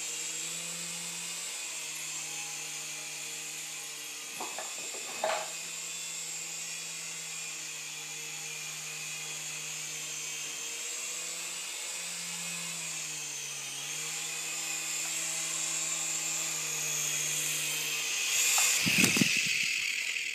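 Small RC helicopter's electric motor and rotor running with a steady high whine, its pitch dipping and rising slightly with the throttle. Two short knocks come about four and five seconds in, and a louder noisy burst near the end.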